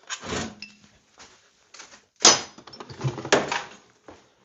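Steel tools and bar stock being handled on a workbench: three separate metal knocks, the loudest about two seconds in, with lighter scraping between.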